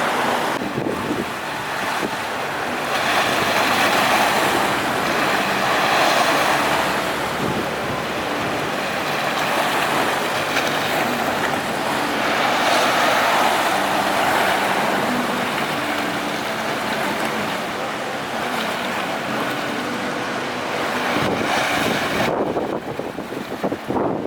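Rough sea waves surging and washing in strong wind, swelling and easing every few seconds, with a faint steady low hum underneath.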